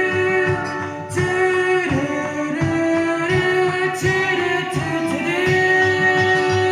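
Music: singing with long held notes over an accompaniment.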